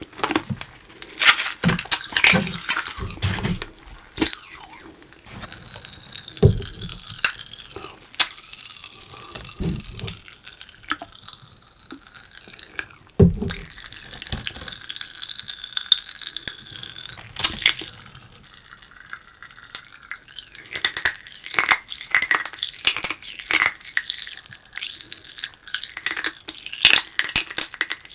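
Sticky edible slime candy squelching wetly, with irregular clicks and crackles and a few dull thumps.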